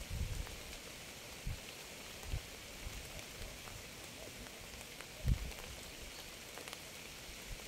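Steady rain falling as an even hiss, with a few heavier drops landing as short low thuds here and there.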